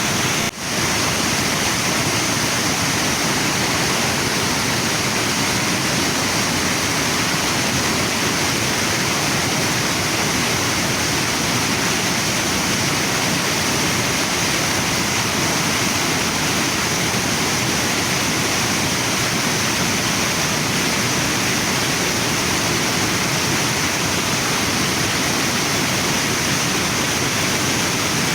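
Waterfall and river water rushing in a steady, full hiss, with a brief dip about half a second in.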